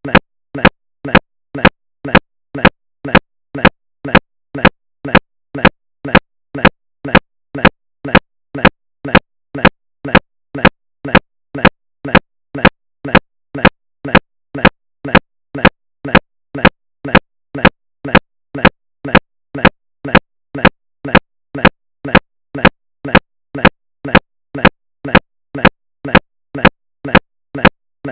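A regular train of sharp clicks, about two to three a second, alternating louder and softer, each carrying a brief low hum; it goes on without change, like a stuck, stuttering audio track.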